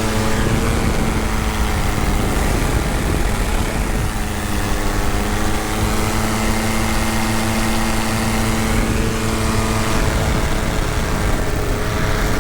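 Tandem paramotor trike's engine and propeller running steadily in flight, a constant drone whose pitch shifts slightly a couple of times.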